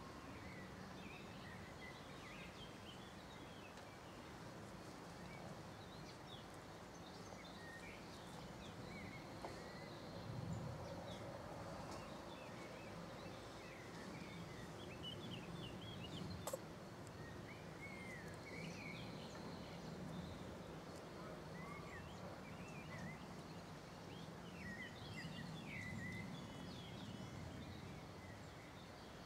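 Outdoor ambience: steady background noise with small birds chirping in short, scattered calls throughout.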